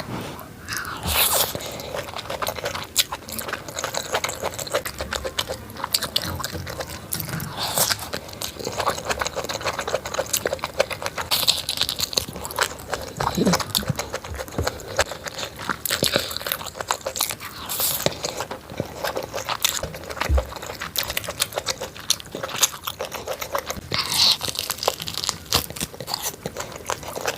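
Close-miked eating: biting, crunching and chewing fried food, heard as a run of irregular crisp clicks and crackles.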